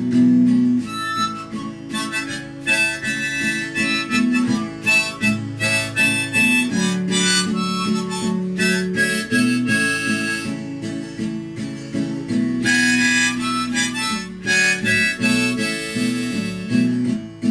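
Harmonica playing a melody over strummed acoustic guitar, the instrumental break between verses of a folk-style song.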